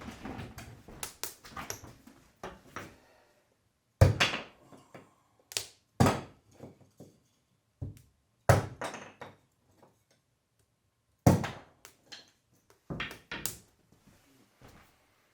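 A series of separate knocks and thuds in a small room, a second or two apart, each with a short rattle after it; the loudest comes about four seconds in.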